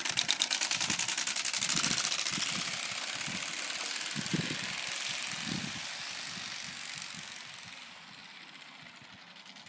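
Playing cards held by a clothes peg against a bicycle's spokes, flapping in a rapid clatter meant to imitate a motorbike engine as the bike is ridden. The clatter fades steadily as the bike moves away.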